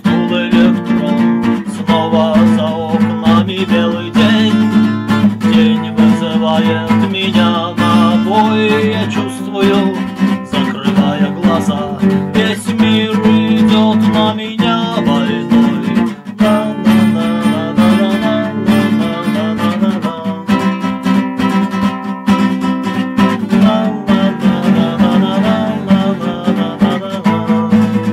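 Instrumental guitar music: an acoustic guitar strummed and picked in a steady, continuous passage with no singing.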